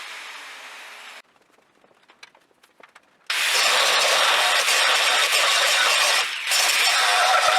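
A power tool winding down, then an electric welding arc crackling in two runs that start and stop abruptly: about three seconds, a brief break, then about a second and a half more, as the new angle is welded onto the trailer's frame rails.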